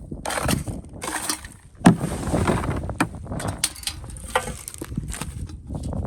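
Clicks, scrapes and taps of small tools and hands working on a smartphone, with one sharp knock about two seconds in.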